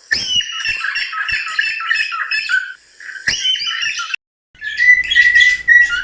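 Cockatiels chattering with quick, busy chirps and warbles, broken by a short gap about four seconds in. After the gap come chirps over a steadier whistled note.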